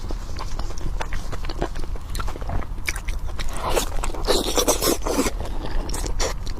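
Close-miked eating of pork: wet chewing with many small mouth clicks, and a louder, rough scraping-crunching stretch about halfway through.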